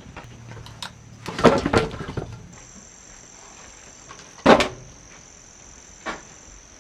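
Wood knocking and clattering: a short run of knocks about a second and a half in, one sharp loudest knock about four and a half seconds in and a lighter one near the end, over a steady high insect drone.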